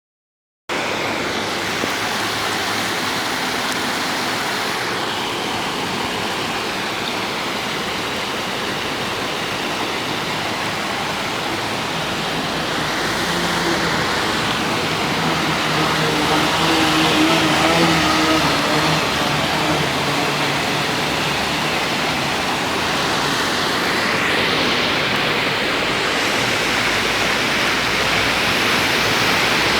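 Heavy rain pouring onto a street, a steady hiss of falling and running water. Midway a motor vehicle's engine hum rises and fades as it passes on the wet road.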